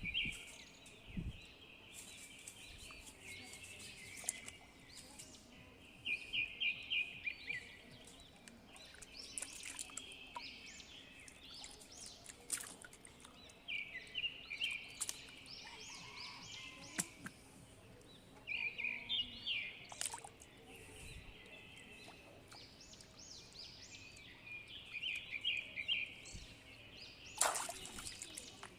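Birds singing: short, rapid trilled phrases repeated every few seconds, with higher chirps in between and a few sharp clicks.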